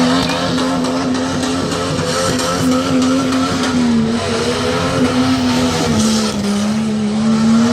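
Jeep Cherokee's engine held at high revs under hard throttle as it runs the tough truck course, the pitch dipping briefly a couple of times.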